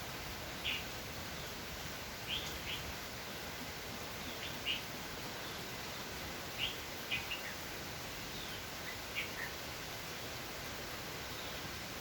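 Steady hiss of falling rain, with short, high bird chirps scattered through it, one or two about every second.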